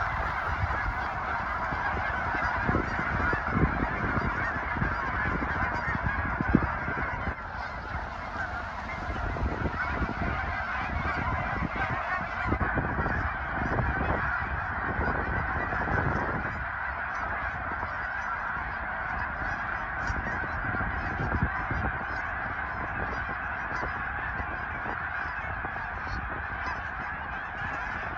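A large flock of migrating geese honking, a dense, continuous chorus of overlapping calls.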